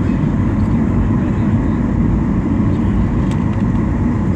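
Jet airliner heard from inside the passenger cabin: a loud, steady rumble of engines and airflow with a faint whine on top.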